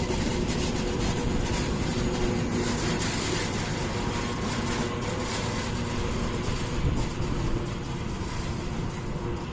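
A train running on the rails: a steady rumble and hiss with a locomotive's engine hum, easing off slightly near the end.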